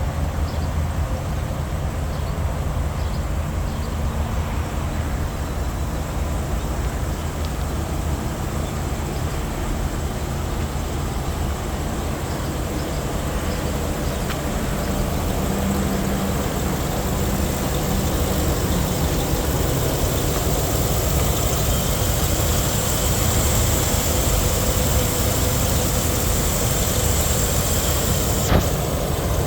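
Pickup truck engine running steadily with a low rumble that stays even throughout, and a single sharp click near the end.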